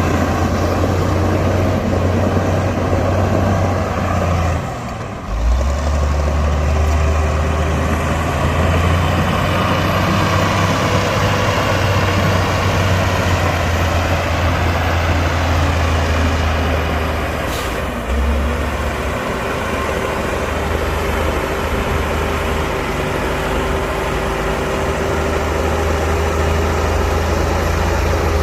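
Heavy diesel engine of earthmoving machinery running steadily. The level drops briefly about five seconds in, and the low engine note shifts about eighteen seconds in.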